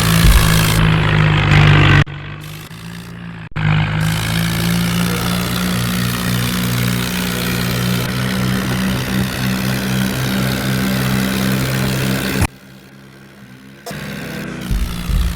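New Holland tractor's diesel engine running steadily with a low, even hum, the sound dropping away abruptly twice.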